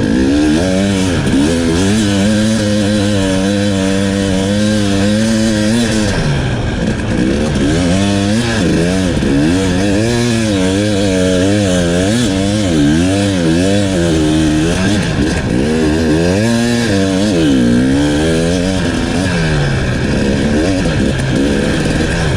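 KTM 300 enduro dirt bike's two-stroke engine revving up and down over and over, with a few seconds of steadier running near the start.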